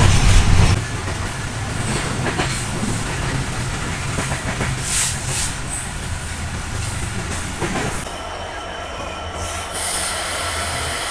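Passenger train running along the track: a steady rumble of wheels on rail, louder for the first second, with occasional sharp clacks over rail joints.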